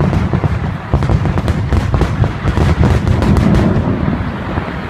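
Fireworks going off in a rapid barrage: many sharp cracks and pops over a continuous low booming rumble, thinning out near the end.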